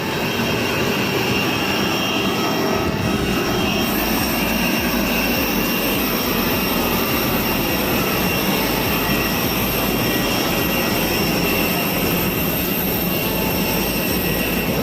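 Jet airliner engines running: a steady loud rush with high whining tones over it, one more high tone joining about four seconds in.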